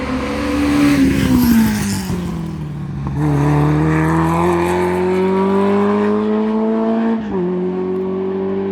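Race car engine at full song on a hill climb: the revs fall away for the first few seconds, then pick up and climb steadily under hard acceleration, with a gear change about seven seconds in.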